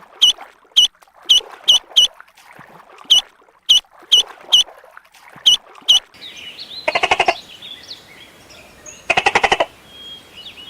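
Short, sharp, high bird calls repeated about twice a second. Then two quick runs of rapid, raspy duck quacks.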